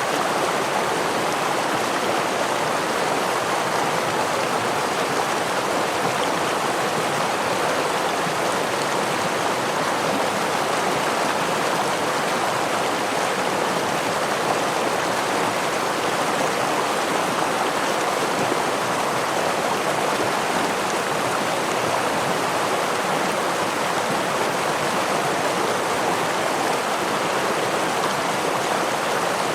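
Forest stream running over a small waterfall: a steady, unchanging sound of flowing water.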